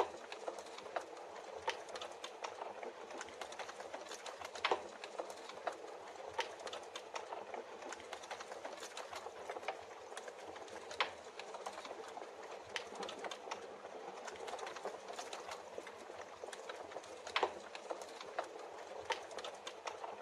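Wood fire crackling in a fireplace: a steady hiss with irregular sharp pops and snaps, several of them louder than the rest.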